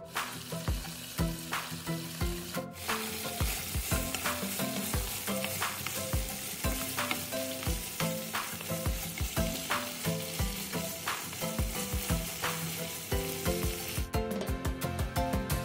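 Chicken tocino pieces sizzling as they fry in their sauce in a nonstick pan, stirred and turned with a wooden spatula, over light background music. The sizzle stops about a second and a half before the end, leaving the music.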